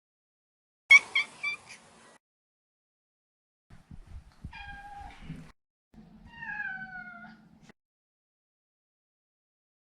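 Maine Coon cat vocalising in separate short bursts with dead silence between them: a quick run of about four short, high chirps about a second in, then a meow a few seconds later and a second meow that slides down in pitch.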